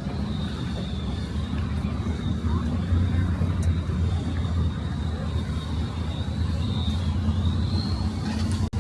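Steady low engine rumble, with a brief dropout near the end.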